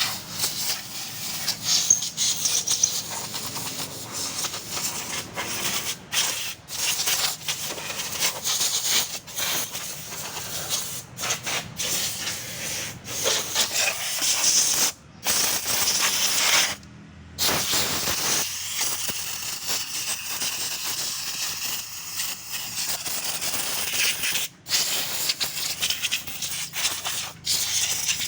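Water spraying hard from a nozzle onto a motorcycle, a steady hiss that cuts out briefly a few times, most noticeably twice a little past halfway.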